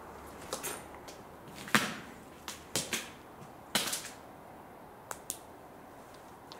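Footsteps, with sharp irregular clicks and cracks underfoot about once a second.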